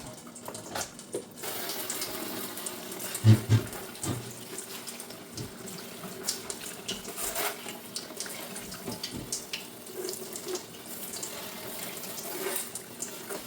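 Sink tap running, water splashing as soap is rinsed off a glass refrigerator shelf, with a knock about three seconds in.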